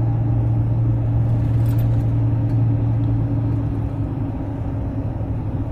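Twin-turbocharged 6.0 L LQ4 V8 truck engine and 3-inch dual exhaust, running under a steady deep drone while driving, easing off slightly near the end.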